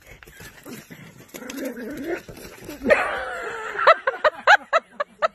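A dog whining and yelping, then breaking into a quick run of high yaps, about three a second, from about four seconds in.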